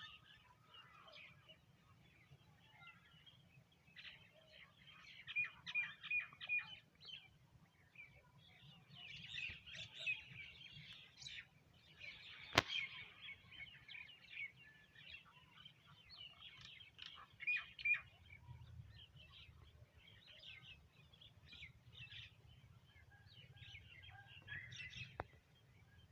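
Sparrows chirping in bursts of short, quick chirps, with one sharp click about halfway through and a faint low hum underneath.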